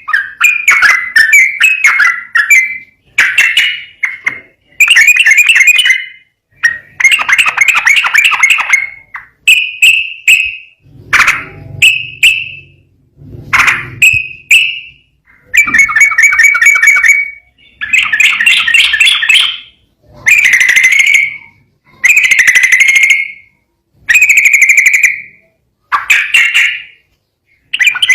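Yellow-vented bulbul (trucukan) singing loudly in a long run of short, rapid warbled phrases. Each phrase lasts about half a second to two seconds, with brief pauses between.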